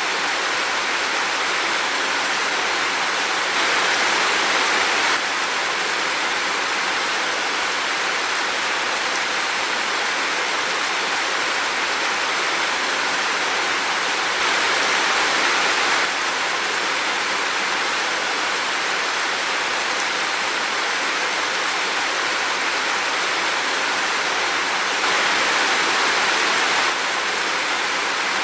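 Heavy rain falling steadily as a dense, even hiss. It swells slightly louder three times for a second or two, about 4, 15 and 26 seconds in.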